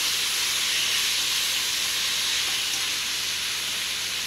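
Sliced vegetables frying in a hot non-stick wok: a steady sizzle.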